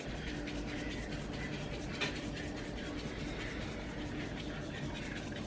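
Seasoning being shaken from a spice shaker into a pot of chili: a fast, even run of soft scratchy shakes over a low steady hum.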